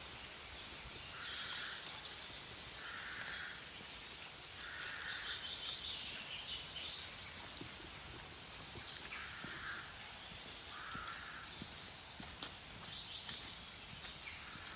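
Birds calling: a harsh call about half a second long repeats roughly every second and a half, with shorter, higher chirps from other birds in between.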